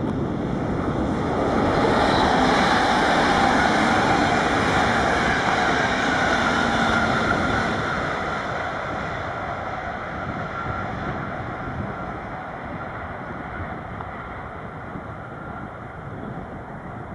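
A train passing on the tracks: a broad rumbling rush that builds over the first couple of seconds, holds, then slowly fades as it moves away.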